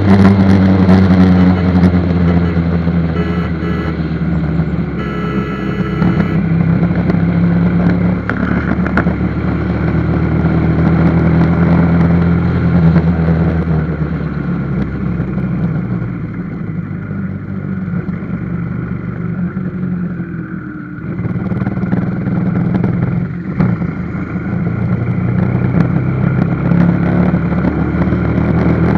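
Motorcycle engine running on the move, its pitch rising and falling with changes of speed, with a brief dip in level about two-thirds of the way through.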